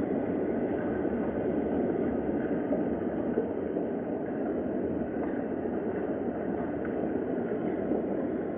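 Steady rain ambience: a continuous, even, muffled rushing noise with no breaks.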